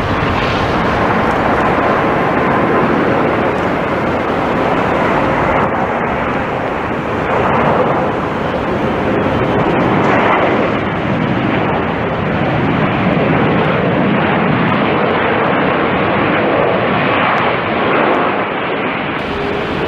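Airliner jet engines, a loud steady rushing noise with faint steady whines in it.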